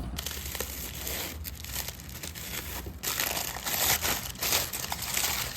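Packaging crinkling and rustling as something is unwrapped, louder and busier from about three seconds in.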